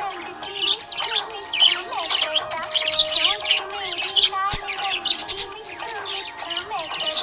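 Budgies chirping in a dense run of quick, high calls, over background music.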